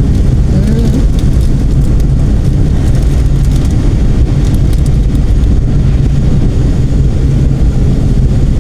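Vehicle on the move: a loud, steady rumble of engine and road noise.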